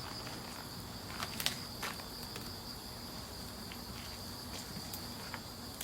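Wood campfire crackling, with a few sharp pops about a second and a half in and lighter ticks later, over a steady high-pitched insect trill.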